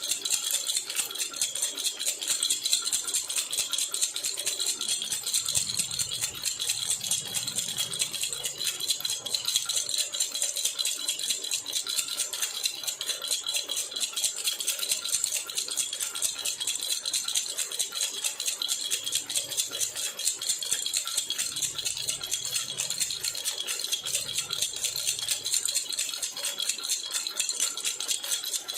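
A jhunjhuna baby rattle shaken without a break, giving a fast, even jingle.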